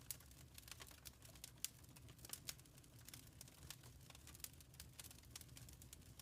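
Wood fire crackling faintly: irregular sharp snaps and pops over a low steady rumble, with one louder pop about a second and a half in.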